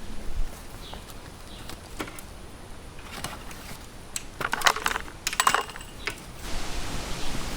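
Clattering of small hard objects in a few short bursts of clicks and rattles, loudest in the middle, followed by a steady hiss near the end.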